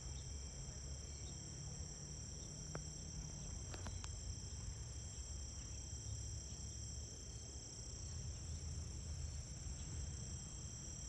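Faint steady chorus of insects, a continuous high trill, over a low outdoor rumble, with a couple of small clicks around three and four seconds in.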